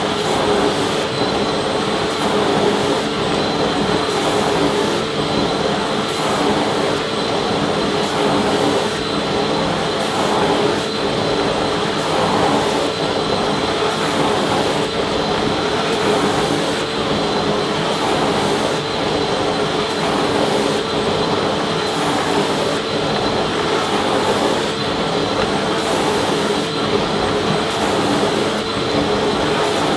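Vacuum cleaner running steadily: a continuous motor whine over a rush of air, with no change in speed.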